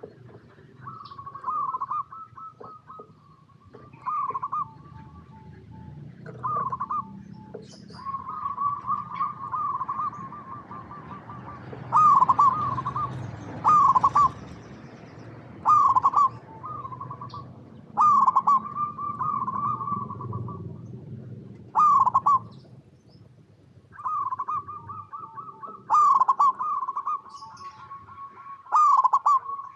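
Zebra dove (perkutut) singing: repeated phrases of rapid, rolling coos, several birds or phrases overlapping, with loud accented notes about every two seconds from the middle on. Faint high chirps sound now and then.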